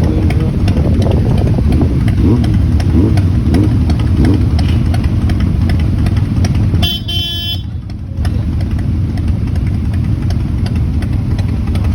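Motorcycle engines idling with a steady low rumble, one revving up and down a few times a couple of seconds in. About seven seconds in the rumble briefly drops out under a short, steady high tone.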